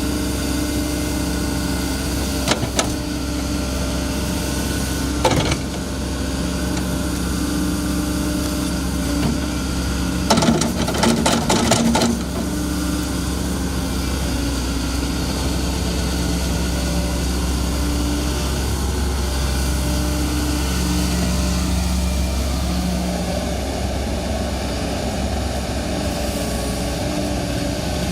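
Excavator diesel engine running steadily, its note stepping up and down as the machine works. Sharp knocks a couple of times, and a quick run of clanks about ten to twelve seconds in.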